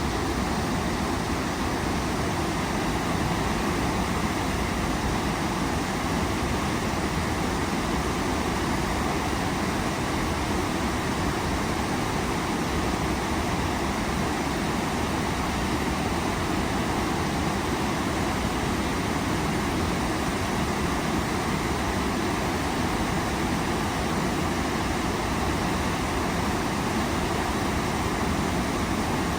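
Waterfall, a steady, unbroken roar of falling and rushing water.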